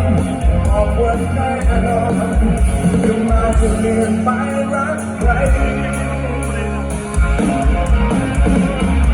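Live rock band playing loudly, with electric guitar, bass and a singing voice over a steady low beat. The beat drops out for about a second near the middle, then the full band comes back in.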